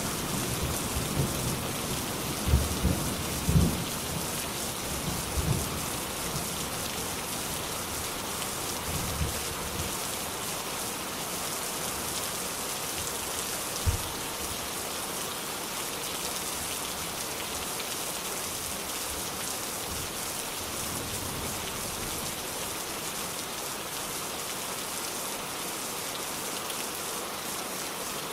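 Steady rain falling. Low rumbles of thunder fade out over the first several seconds, with one short low thump about halfway through.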